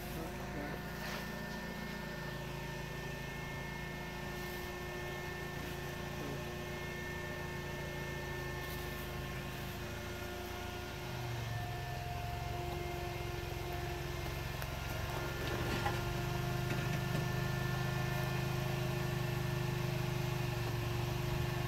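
Jeep Cherokee's engine running at low revs as it crawls up a rock ledge. It gets louder about eleven seconds in and again around sixteen seconds as the Jeep takes the climb.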